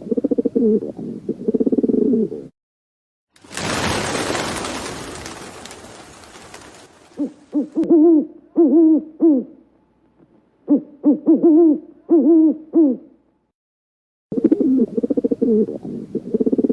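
Pigeons cooing: low, rolling, throaty coos at the start and again near the end, with groups of short arched "hoo" calls in the middle. A loud rushing noise a few seconds in fades away over about three seconds.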